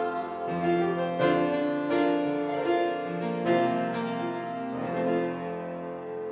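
Piano playing a slow run of struck notes and chords, the last ones dying away near the end.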